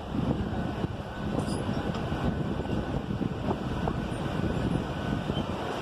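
Mumbai suburban local train running on the tracks, a steady rumble with rattling of the wheels and carriage, heard from inside the coach.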